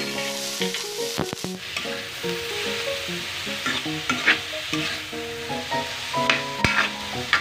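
Sliced pork sizzling as it sautés in a metal wok, stirred with a metal ladle that scrapes and clacks against the pan now and then.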